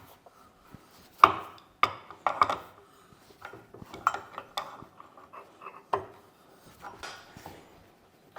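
Irregular clinks, knocks and scrapes of metal workpieces and tools being handled and set down on a workbench.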